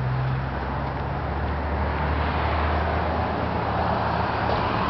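Passing road traffic: a low engine drone that drops in pitch about half a second in, under a rush of tyre and traffic noise that grows louder.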